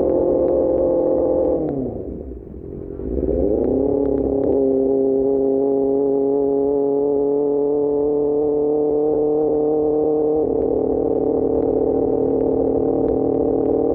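QJMotor SRK600's inline-four running through an Austin Racing GP1R exhaust at steady revs. Just under two seconds in, the engine note drops sharply in pitch and volume, then climbs back over the next two seconds and holds a steady pitch.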